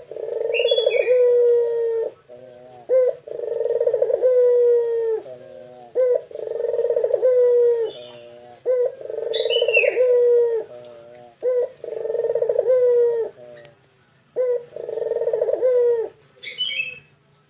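A local puter (ringneck or Barbary dove) cooing: a big, echoing coo repeated about six times, each phrase a deep held note lasting a second or two. Three brief high chirps from another small bird come in between.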